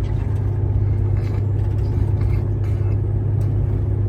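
Steady low drone of a semi-truck's diesel engine and road noise, heard from inside the cab while driving.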